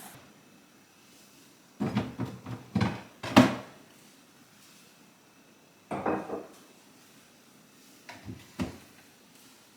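Clatter of kitchen containers and dishes being handled and set down, in three bunches of knocks and clinks: a longer run about two seconds in with the loudest knock, another about six seconds in, and a pair near the end.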